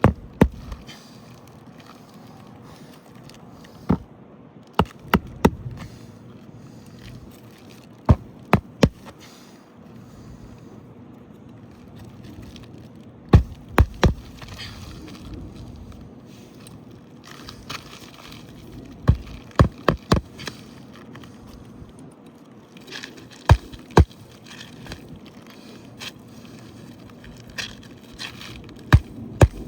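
Hammer driving roofing nails through an asphalt shingle: sharp blows in quick groups of two to four, a few seconds apart. The old shingles around it crack as the nails go in, so they cannot be repaired.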